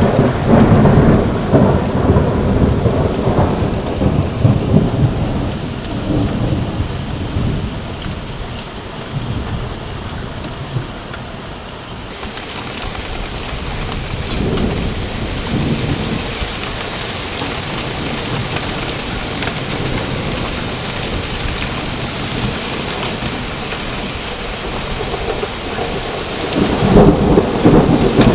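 Thunderstorm downpour: heavy rain with hail pelting down steadily, growing heavier and hissier about twelve seconds in. Thunder rumbles loudly at the start, softer rolls come in the middle, and a loud rumble comes again near the end.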